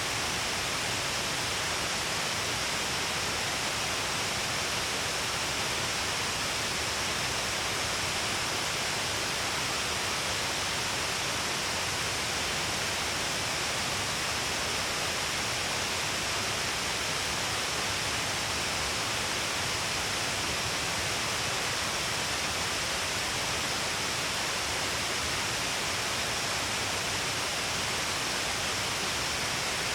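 Shiraito Falls: water pouring in many strands along a wide cliff face, a steady, even rush of falling water that does not change.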